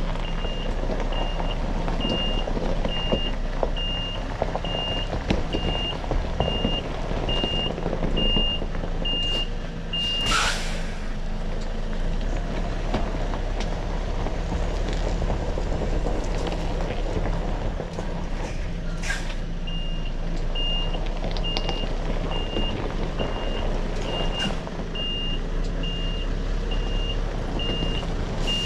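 Articulated lorry's reversing alarm beeping steadily, about one and a half beeps a second, over the diesel engine running. The beeping stops about a third of the way in with a sharp hiss of air, typical of the air brakes, and starts again after a second hiss about two-thirds through.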